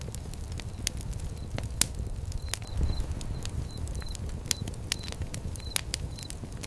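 Wood fire crackling: irregular sharp pops and snaps over a low, steady rumble of flames. Short, faint high peeps come and go among the pops.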